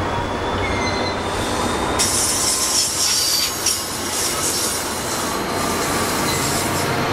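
NJ Transit passenger coaches rolling past on the rails with a steady rumble. About two seconds in, a high-pitched hissing squeal from the wheels or brakes joins it.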